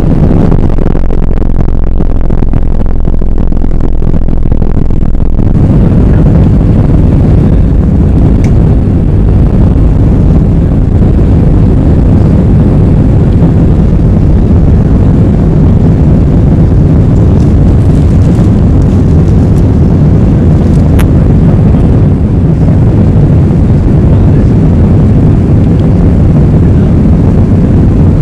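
Airbus A320's jet engines running at takeoff power: a loud, steady low rumble that grows fuller about five seconds in.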